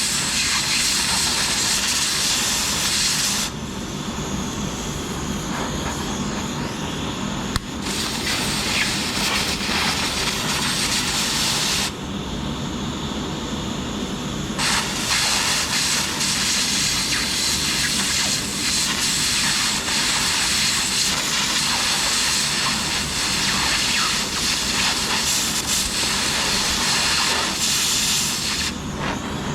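Flux-cored arc welding with a Lincoln Weld-Pak 90i wire-feed welder: the arc gives a steady crackling hiss in long runs. It stops about three and a half seconds in and again around twelve seconds, then resumes each time, while a lower background noise carries on through the pauses.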